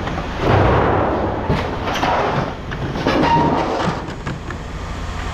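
Scrap metal pieces clanking and scraping as they are handled and tossed, in several loud bursts with sharp knocks and a brief ring of metal about three seconds in, over a steady low rumble.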